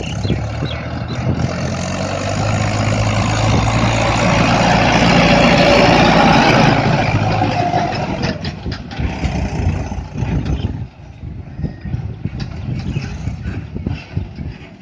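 Mahindra Arjun 555 DI tractor's four-cylinder diesel engine running while hauling a fully loaded trolley. It grows louder to a peak about six seconds in, then falls away.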